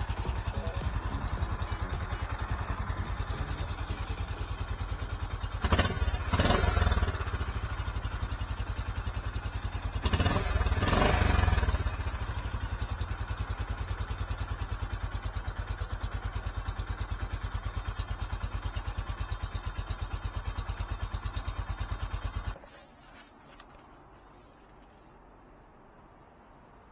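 Honda CB350 single-cylinder engine idling with an even, quick pulse. The throttle is blipped twice, briefly about 6 seconds in and for a couple of seconds about 10 seconds in, and the engine is switched off about 22 seconds in.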